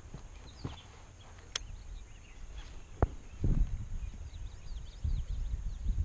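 A few sharp knocks and clicks, the loudest about three seconds in, followed by low rumbling handling noise. Small birds chirp faintly in the background.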